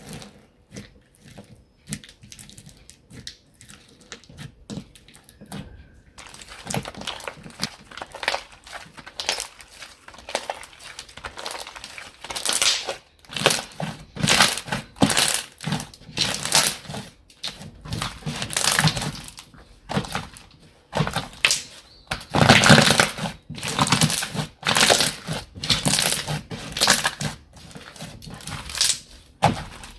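Slime being squeezed and pressed by hand, crackling with many small pops. It is faint at first, then from about six seconds in comes a run of louder, repeated squeezes, about one or two a second, growing louder again near the end.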